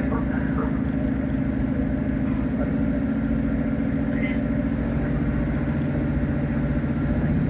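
Diesel train engine running steadily, a low drone with several even tones, growing slightly louder near the end.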